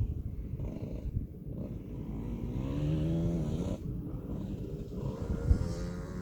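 KTM 65SX's 65 cc two-stroke single-cylinder engine running at a distance, its pitch rising as it revs through the middle, then holding steady near the end, over a low, crackly rumble.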